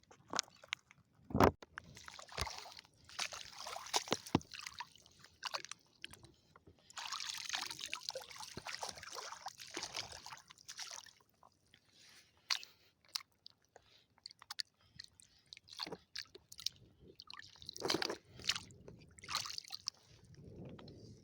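Wet sloshing and crunching in shallow water and wet sand on a tidal flat, with scattered sharp clicks and knocks. There are two longer stretches of splashy sloshing, one a few seconds in and one around the middle.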